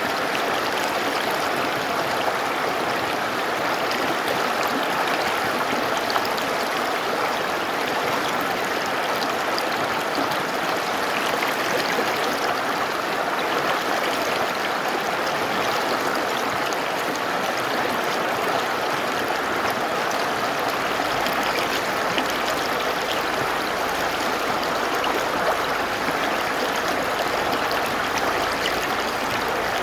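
Mountain river rushing over rocks: a steady, even water noise with no breaks or changes.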